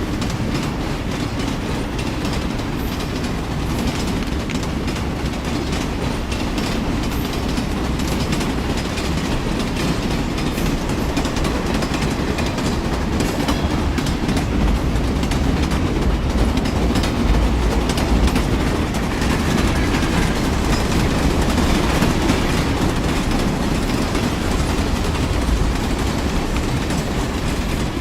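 Model train running on track: a steady rumble of wheels and motor with fine clicking as the wheels cross rail joints.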